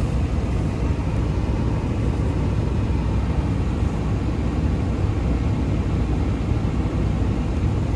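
Strong snowstorm wind buffeting a car, heard from inside the cabin as a steady low rumble.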